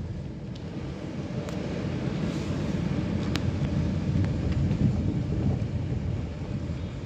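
A vehicle driving on an unpaved forest road: a steady low rumble of engine and tyres with wind buffeting the microphone, and a few light clicks or rattles, the sharpest about three seconds in.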